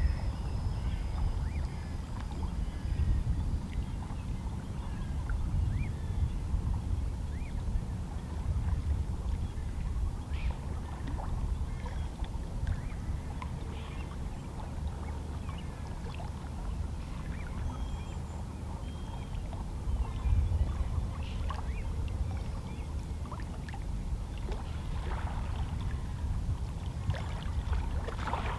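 Small, lazy sea waves lapping and splashing against shoreline rocks, a scatter of little splashes over a steady low rumble of the sea.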